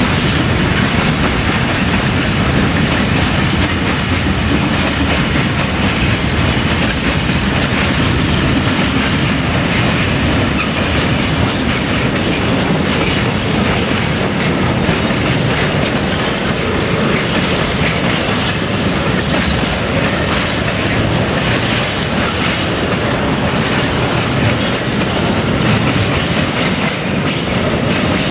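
Freight train wagons rolling along the line, their wheels clattering over the rail joints in a steady clickety-clack.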